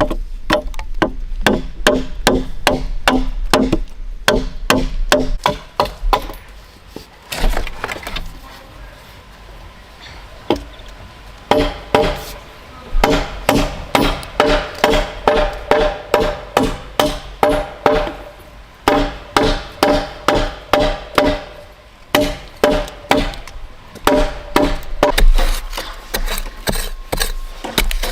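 A tool striking wood over and over, about two blows a second, in runs broken by short pauses. Each blow gives a sharp knock with a short ring.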